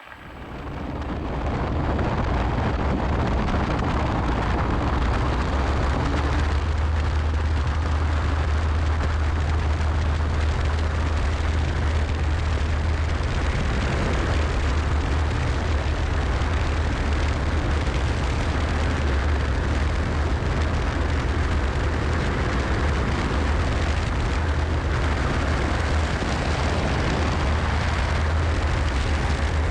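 Cessna 172SP's four-cylinder Lycoming piston engine and propeller heard from inside the cockpit, rising to full takeoff power over the first two seconds and then running steady and loud with a deep drone through the takeoff and climb.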